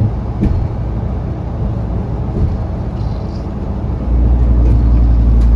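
Inside a Scania K360CA articulated bus on the move: the engine running with road rumble and small rattles. The deep low rumble steps up sharply and gets louder about four seconds in.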